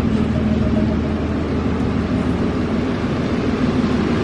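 Heavy rain pouring down, a steady hiss, over a low steady hum of vehicle traffic.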